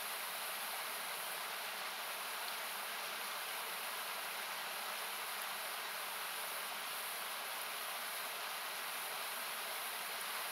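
Steady rush of a river, heard as an even, noise-like hiss with its low end cut away by equalising.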